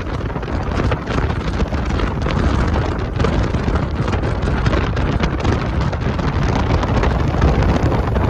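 Strong wind buffeting the microphone: a dense, steady rush of wind noise, heaviest as a low rumble.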